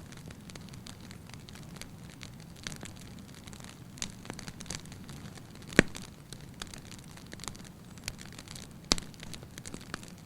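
Wood fire in a fireplace crackling, with many small snaps over a soft low rumble of the flames, and two loud pops about six and nine seconds in.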